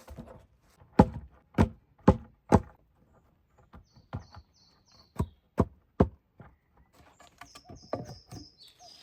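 Sharp blows of a tool striking wood: four in quick succession about a second in, then three more just past the middle. Between them and again near the end, a small bird sings short runs of high, stepped notes.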